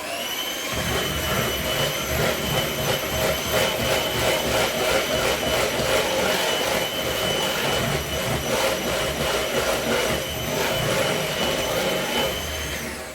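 Electric hand whisk running continuously, mixing cake ingredients: a steady motor whine that cuts off suddenly near the end.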